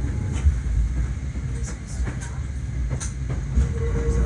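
Hakone Tozan Railway train running, heard from inside the carriage: a steady low rumble with scattered clicks of the wheels over the track. A steady tone comes in near the end.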